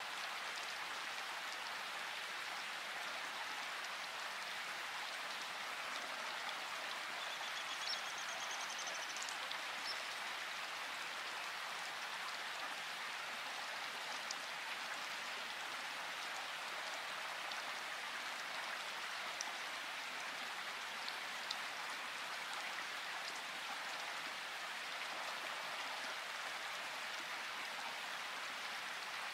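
Steady, even rain-like hiss. A brief high chirping call comes about eight seconds in, and a few faint ticks follow later.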